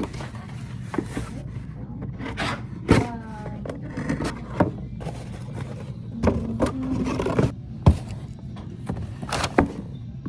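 Handling and unboxing a package: scraping and rustling of packaging with several sharp knocks and clicks.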